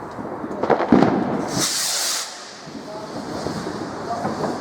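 Fireworks going off: a sharp crack about a second in, followed by a high hiss lasting under a second.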